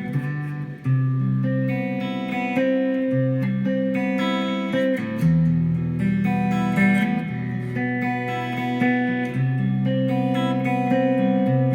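Guitar playing ringing chords and held notes that change every second or so, with no other instruments.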